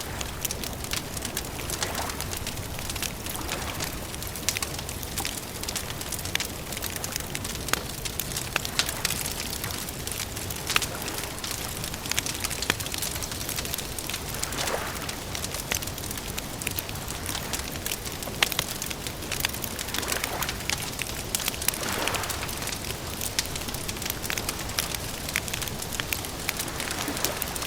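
Wood campfire crackling: many sharp snaps and pops over a steady low rumble, with a few longer sputters.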